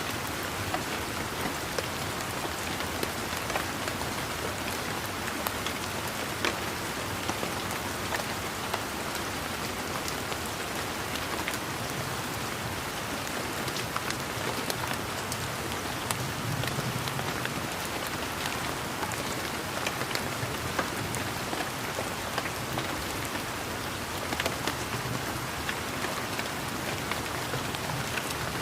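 Steady rain falling, with many close single raindrops ticking sharply over an even hiss of rainfall.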